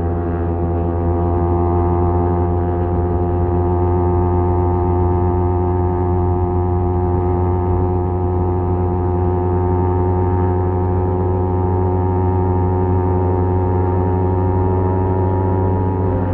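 Kawasaki Z250 parallel-twin engine through a SeaPro aftermarket muffler, idling steadily at a constant engine speed with a deep, even exhaust note.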